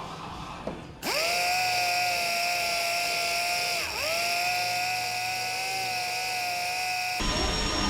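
Handheld power tool spinning up quickly to a steady high whine, briefly dropping in pitch and spinning back up partway through. Near the end it gives way to a different, noisier machine hum.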